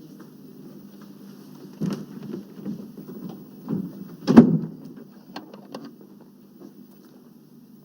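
A few knocks and clicks, with one loud thump about four and a half seconds in, over a steady low hum.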